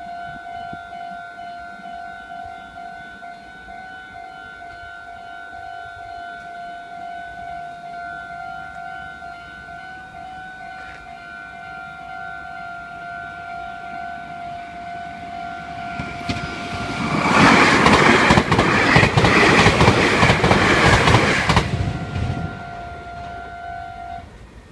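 Japanese level crossing warning bell ringing steadily while a Meitetsu train passes over the crossing. The passing train is the loudest part, lasting about five seconds, and the bell stops just before the end.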